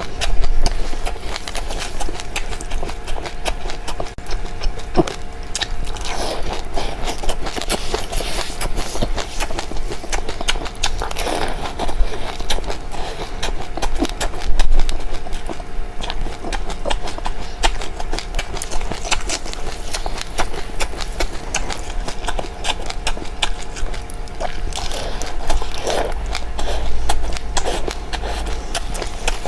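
Close-up chewing of dry seeds: a dense, continuous run of small crunches and crackles, with a faint steady hum underneath.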